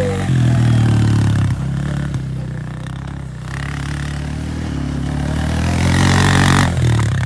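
Pit bike engine running and revving on the track: it opens up hard about half a second in, eases off through the middle, then builds again near the end before backing off.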